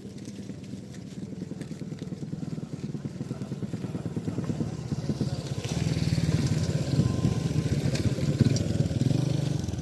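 A small engine running with a fast, even pulse, getting steadily louder as it comes closer.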